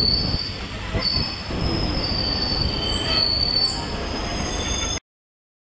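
Train running on the rails with a low rumble, its wheels giving a high-pitched squeal that wavers in pitch. The sound cuts off suddenly near the end.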